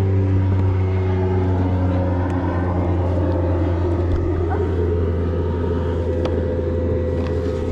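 A motorboat engine running with a loud, steady low drone as the boat goes by.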